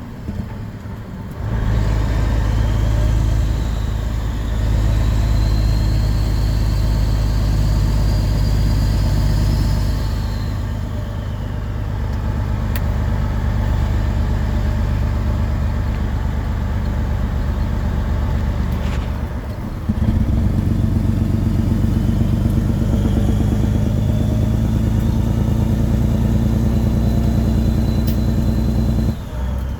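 Caterpillar 6NZ inline-six diesel of a Peterbilt 389 running loud through 8-inch straight pipes, with a high whistle rising over the engine note. The engine sound drops briefly about ten seconds in and again near twenty seconds, then comes back loud.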